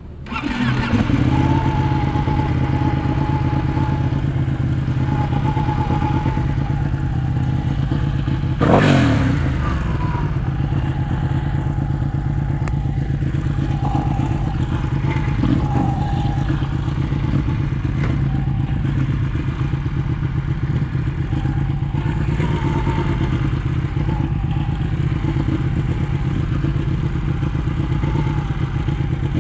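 Ducati 1199S Panigale's Superquadro L-twin engine comes in loud at the start and settles to a steady idle. About nine seconds in, one quick blip of the throttle falls back down to idle.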